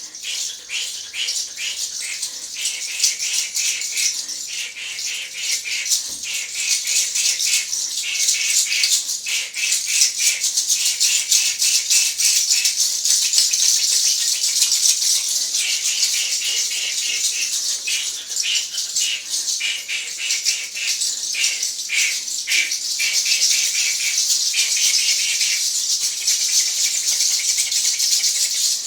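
A hand rattle shaken steadily and rapidly throughout, a dense hissing shake in uneven clusters of strokes.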